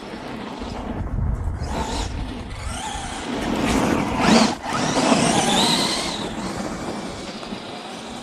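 Arrma Gorgon electric RC monster trucks driving, their motors whining and tyres churning over wet ground, loudest as one passes close about four seconds in. A low rumble of wind on the microphone comes about a second in.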